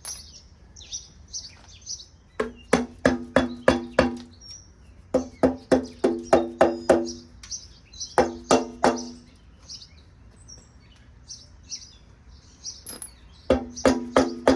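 Bursts of rapid, evenly spaced ringing knocks, about five a second, each on the same pitch, starting about two seconds in and recurring near the middle and the end, over songbirds chirping.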